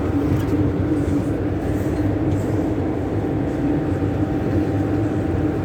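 MTR M-Train electric multiple unit running between stations, heard from inside the carriage: a steady rumble of wheels on track with a constant hum.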